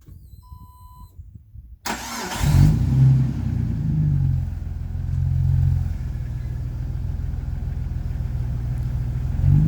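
Jeep Wrangler TJ engine cranking on the starter, catching about two seconds in with a brief rev, then settling into a steady, deep idle through a Magnaflow 18135 glasspack muffler. A short electronic beep sounds during the cranking.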